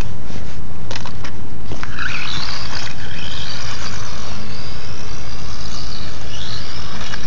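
Losi Micro Desert Truck's small brushed electric motor whining high, its pitch falling and rising as the truck speeds up and slows, over a steady low rumble. A few sharp ticks come in the first two seconds.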